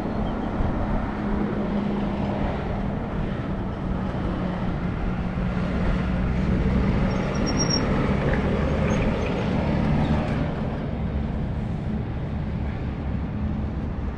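City traffic noise with a steady engine hum from a nearby vehicle. The hum fades about eight seconds in, and the traffic swells in the middle and eases off toward the end.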